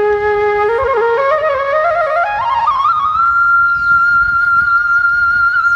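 Flute music: one long low note, then a melody climbing in small steps to a high note that is held from about halfway on.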